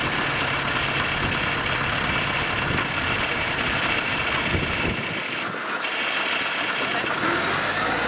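Farm machine engine running steadily in a rice field, the low end thinning briefly a little after five seconds.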